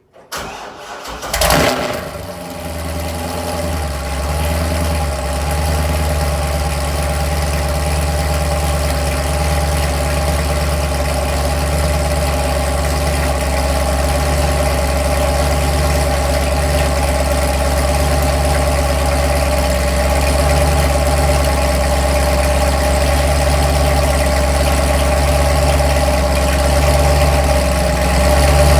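Chevrolet Corvette Z06's V8 cold-starting: a brief crank, a loud rev flare as it catches about a second and a half in, then a steady deep idle.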